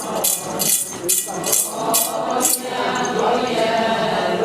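Group of voices chanting a Ponung dance song in unison, a sustained call-and-response refrain. A jingling metal rattle is shaken in a steady beat about twice a second through the first half.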